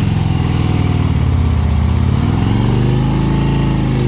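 Harley-Davidson motorcycle engine running at low speed, its pitch dipping and then rising again as the bike is eased into position.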